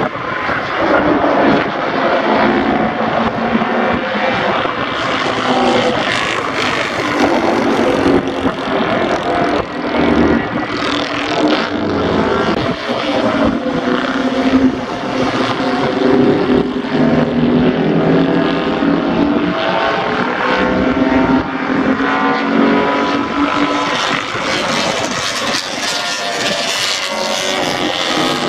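Several vintage racing motorcycles, built before 1972, running hard on a race track, their engines overlapping and rising and falling in pitch as they pass.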